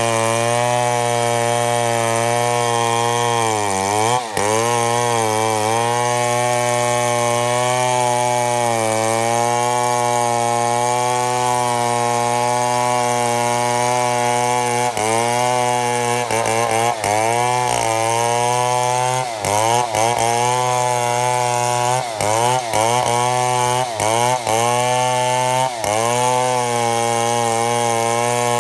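Chainsaw running at high revs while ripping lengthwise through a mahogany log to mill slabs, its engine pitch dipping briefly about four seconds in and several times in the second half as the chain bogs under load in the cut.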